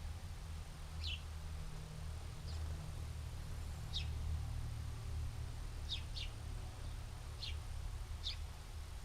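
Short, high bird chirps, one about every second, with two close together about six seconds in, over a steady low outdoor rumble.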